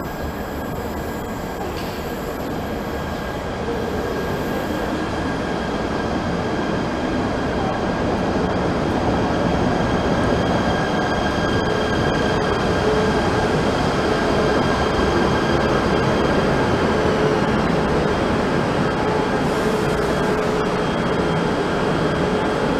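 KTM Komuter electric multiple-unit train pulling into a station platform, its running rumble growing louder over the first several seconds as it comes alongside, then holding steady. A few steady high-pitched whines ride over the rumble.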